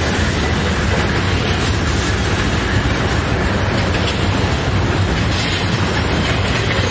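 Freight train cars, covered hoppers and boxcars, rolling past on steel rails: a loud, steady rumble of wheels on track.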